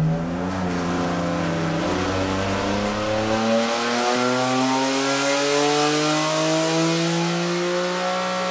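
BMW M4 GT4's twin-turbo 3.0-litre straight-six making a full-throttle dyno pull, its note climbing steadily in pitch as the revs rise through one long run.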